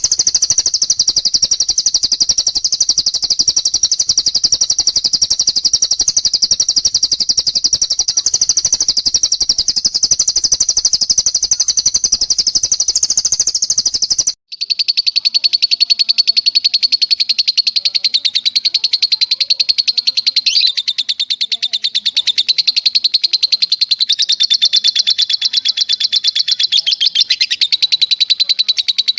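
Songbird recordings of long, rapid trills, the 'long shot' song of cililin and lovebird used as master material. One very high, unbroken trill stops abruptly about halfway through. After a short gap a slightly lower trill of the same fast pace takes over.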